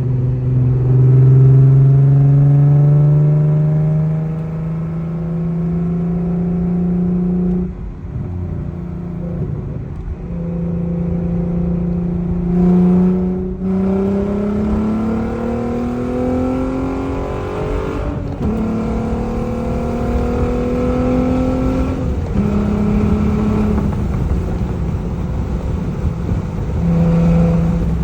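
Audi TT 3.2's VR6 engine breathing through high-flow downpipes and a Magnaflow cat-back exhaust, accelerating in long pulls. Its note climbs steadily in pitch, and is cut by a short dip at each gear change, about 8, 13, 18 and 22 seconds in.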